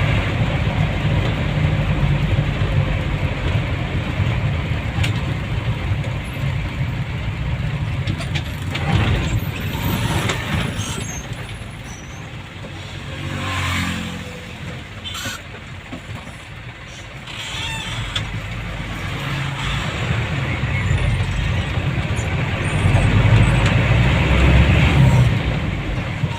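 Road vehicle travelling: a steady engine and road rumble that drops off for a few seconds around the middle, then builds again near the end.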